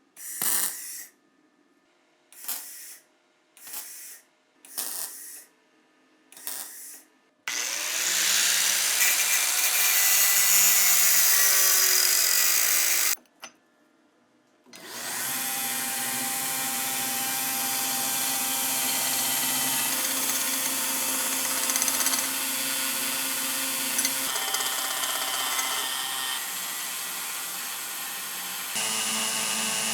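A handheld power tool, started in five short bursts, then running steadily for long stretches with a brief stop about halfway through.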